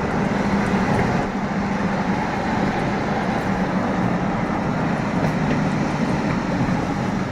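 Diesel locomotives of an approaching BNSF freight train: a steady engine drone over a broad rumble.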